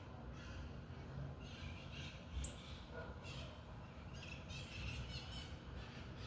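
Bananaquit chirping in short high bursts, with one sharp click about two and a half seconds in, over a low background rumble.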